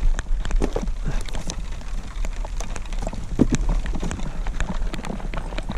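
Heavy rain falling, with many irregular sharp drop taps close to the microphone over a steady low rumble.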